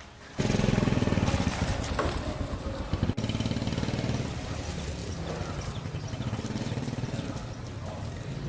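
Motorcycle engine running, cutting in abruptly about half a second in. It is loudest for the first couple of seconds, then settles to a steady, even run.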